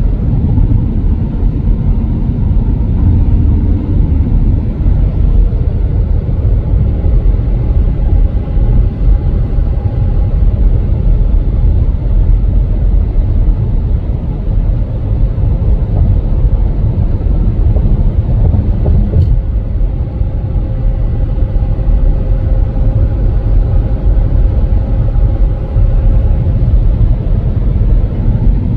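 Car driving steadily: a continuous low rumble of engine and road noise.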